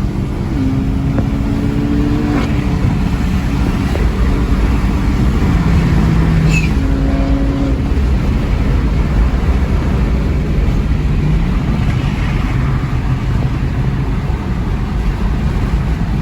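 A car driving at speed: engine running under a heavy low rumble of road and wind noise, its note stepping up and down in pitch a few times.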